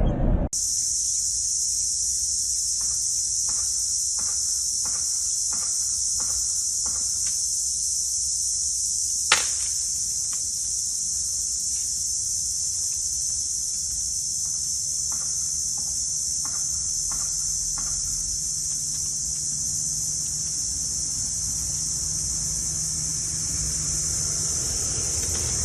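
Rattlesnake rattling its tail: a steady, high-pitched buzz held without a break, the defensive warning of a snake under attack. One sharp click sounds about nine seconds in.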